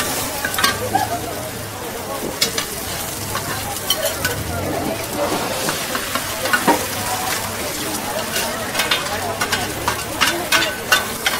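Food sizzling and frying on a hot pan, with a utensil clicking and scraping against it many times as the food is stirred and turned.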